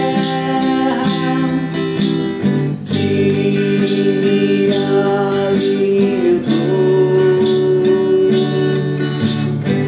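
Music: an acoustic guitar strumming steady chords, about two strokes a second, between sung lines of a song.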